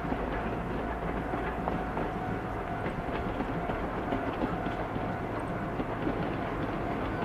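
Steam-hauled train of two old passenger coaches running along the line: a steady rumble with faint, irregular clicks from the wheels on the track.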